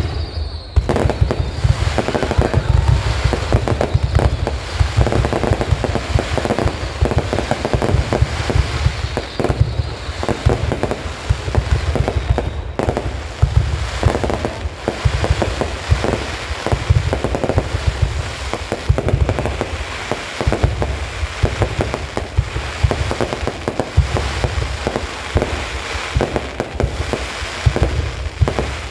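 Aerial fireworks going off in a dense barrage, bang after bang in quick succession with hardly a gap.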